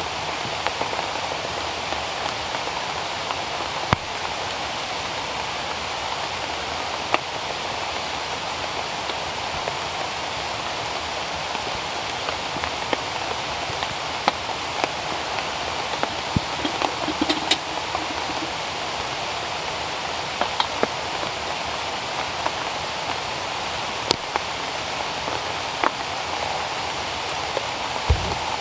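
Steady rain falling on rainforest foliage, with scattered sharper drops tapping close by now and then.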